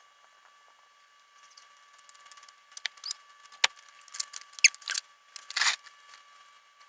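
Hands working with small objects: a scattered run of light clicks and crinkly rustles starts about a second and a half in and is busiest in the second half.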